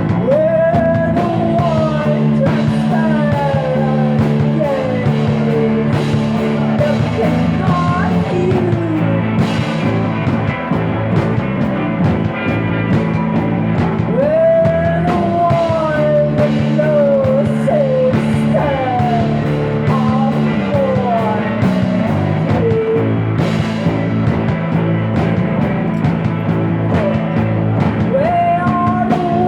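Rock music with a steady low chordal backing and a gliding lead line that slides up and then falls away in curving phrases, a new phrase starting about every fourteen seconds.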